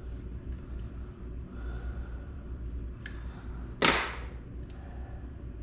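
A single short, loud whoosh of hiss about four seconds in that dies away quickly, over a steady low hum.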